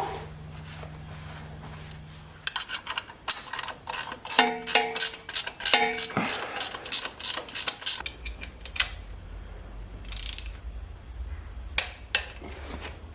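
Ratchet wrench clicking in quick runs as a nut or bolt is worked, with a few more clicks near the end.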